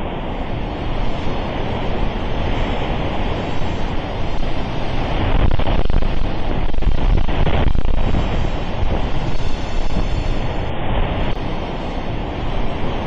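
Strong hurricane wind blowing against a microphone: a loud, steady rough rush, swelling slightly in the middle.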